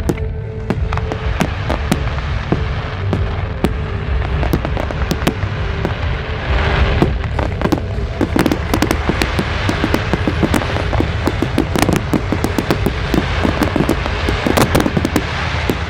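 Fireworks going off: a rapid string of sharp bangs and crackles over a steady low rumble, growing denser in the second half.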